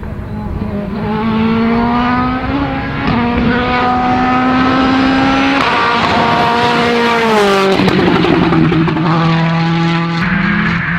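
Turbocharged World Rally Car engine at high revs, its pitch climbing and stepping through gear changes. About two-thirds of the way in, it drops off sharply with a burst of crackling, then holds a lower note and picks up again near the end.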